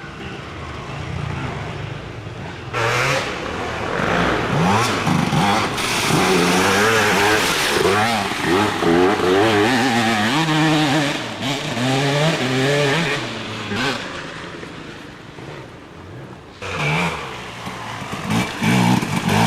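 Off-road dirt bike engines revving hard through a flooded, muddy track section, the pitch rising and falling with the throttle. Water splashes as the bikes plough through. A bike arrives about 3 s in and another about 16.5 s in.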